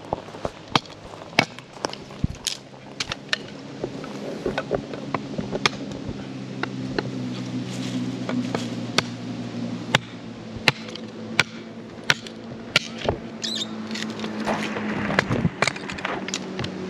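Campfire crackling with sharp, irregular pops, over the steady drone of a motorboat engine whose pitch shifts near the end.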